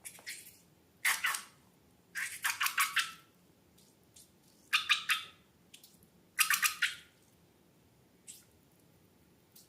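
Slime being squeezed and worked by hand, making short wet crackling squelches, about five bursts with pauses between.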